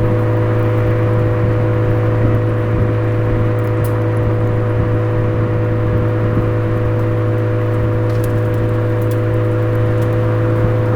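Suzuki Swift Sport ZC33S's turbocharged 1.4-litre four-cylinder through a Fujitsubo aftermarket exhaust, running at a steady engine speed with a constant low drone.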